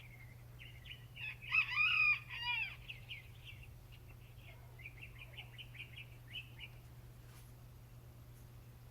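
A rooster crows once, starting about a second in, followed by a quick run of short, high chirps at several a second that fades out after a few seconds.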